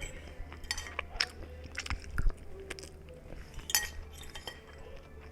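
A person chewing food close to the microphone: scattered wet clicks and crunches, with a light clink now and then. A low thump about two seconds in is the loudest sound.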